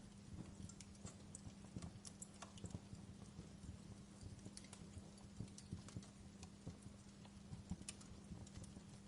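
Wood fire in a fireplace crackling softly, with irregular pops and snaps of burning logs over a steady low hum.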